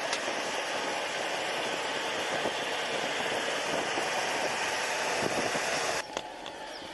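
Su-25 attack aircraft's twin turbojet engines running with a loud, steady rushing noise that breaks off abruptly about six seconds in.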